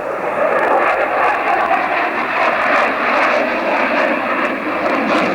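Loud, steady engine noise of an aircraft flying a display pass.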